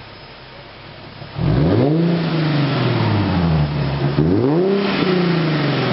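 Nissan 370Z's 3.7-litre V6 through an ARK DT-S cat-back exhaust, settled at a low steady note and then revved twice: a sharp rise in pitch about a second and a half in that falls back, and a second rev about four seconds in.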